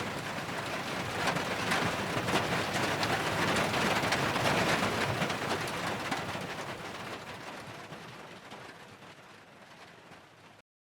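Rain falling, a steady hiss with many small crackling drops, fading out over the last few seconds and then cutting off.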